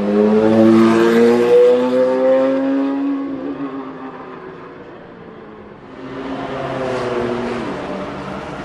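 Lamborghini Murciélago R-SV GT1 race car's V12 accelerating hard, its pitch climbing for a few seconds as it goes by, then fading away. About six seconds in, a second engine note swells, rises and drops as a car passes.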